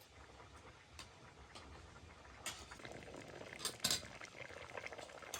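Clinks and knocks of cooking utensils against pots and dishes: a few sharp separate clicks, then a louder pair near the end. Underneath, a steady noise grows louder about halfway through.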